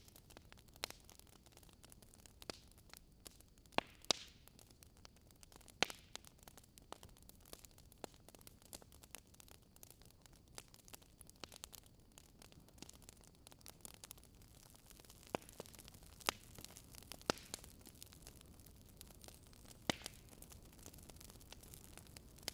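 Campfire crackling: a steady patter of small irregular snaps and pops, with a few sharper, louder pops scattered through, over a faint low rumble.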